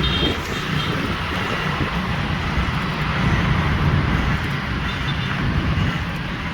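Steady rumble of road traffic mixed with wind buffeting the microphone on a moving bicycle.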